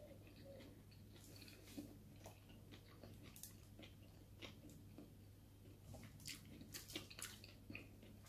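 Faint close-up chewing and mouth clicks of a person eating, scattered small smacks that come more often in the second half, over a low steady hum.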